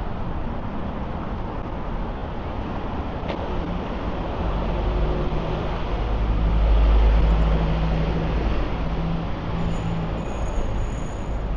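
Road traffic on a city street, with a vehicle's low engine rumble building up about halfway through, at its loudest a little later, then easing off as it passes.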